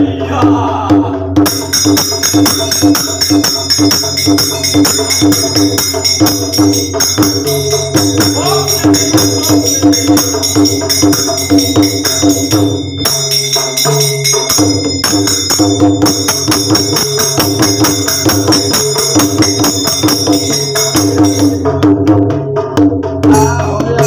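Devotional folk music: jhal hand cymbals clashed in a fast, steady rhythm over a drum beat, with a brief break about thirteen seconds in.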